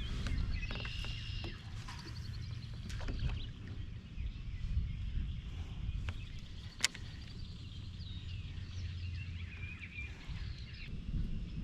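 Birds chirping in short bouts over a steady low rumble, with one sharp click about seven seconds in.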